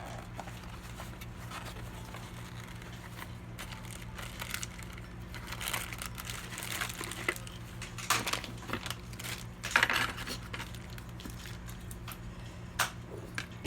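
Crinkling and rustling with several sharp clicks, sparse at first and busier after about five seconds, over a steady low hum.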